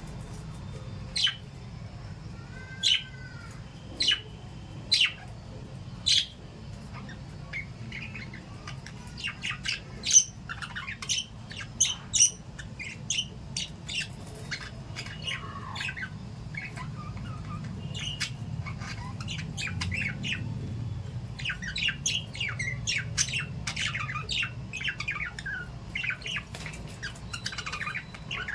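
Small pet parrots squawking and chirping. A few sharp, separate squawks come in the first six seconds, then busier overlapping chirps and squawks from about nine seconds on, densest near the end, over a steady low hum.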